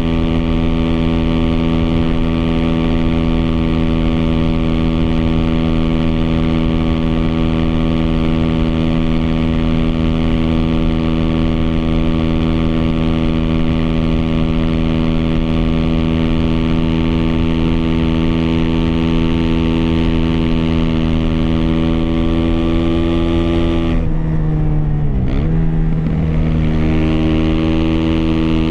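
Aprilia SX 125's single-cylinder four-stroke engine running through an Arrow slip-on exhaust at steady revs while riding. About 24 seconds in, the revs drop sharply and then climb back to a steady note.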